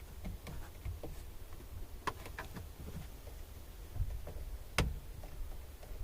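Scattered light clicks and knocks of hand tools and parts being handled, with a quick cluster about two seconds in and one sharper click just before five seconds, over a low rumble.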